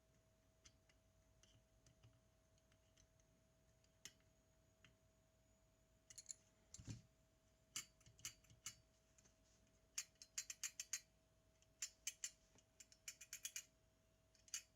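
Faint, irregular clicking of small tools and metal parts being handled during a camera repair, with quick runs of clicks about ten seconds in and again near the end. A dull knock comes about seven seconds in, over a faint steady hum.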